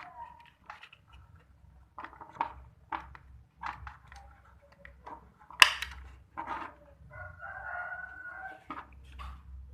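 Scattered clicks and knocks of small parts being handled, with one sharp loud knock past the middle; a rooster crows once in the background near the end, about a second and a half long.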